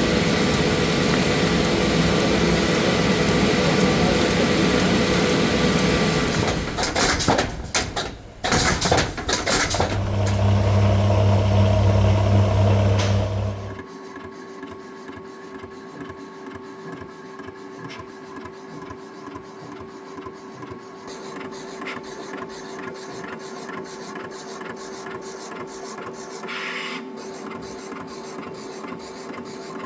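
Printing-shop production machinery running: a loud, steady machine noise, a burst of abrupt clicks about seven seconds in, then a deep loud hum for a few seconds. After that it drops to a quieter machine with a steady tone and rapid, even ticking.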